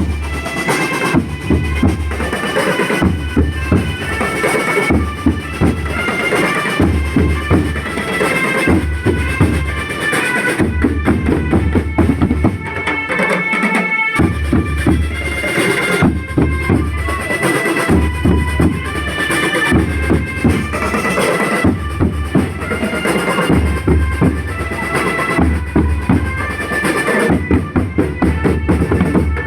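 School drumband playing: bass and snare drums keep a steady beat under a melody carried by wind instruments.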